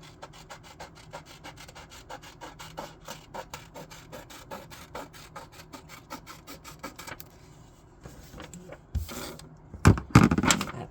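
Drawing tool scribbling on paper in quick back-and-forth strokes, about five a second, colouring a picture in. The strokes stop about seven seconds in, and near the end the paper is handled with a couple of louder knocks and rustles.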